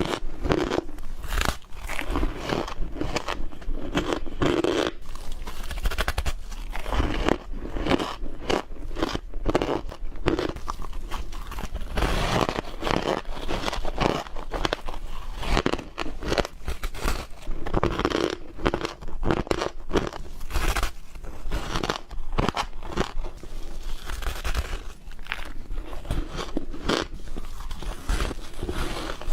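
Ice being bitten and chewed close to the microphone: a continuous run of irregular crunches and cracks.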